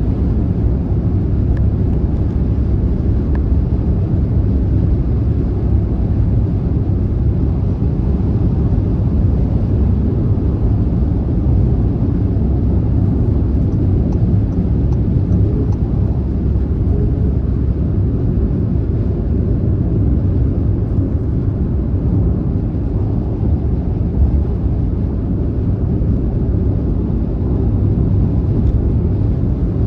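Car driving at motorway speed: a steady, low, even rumble of road and tyre noise.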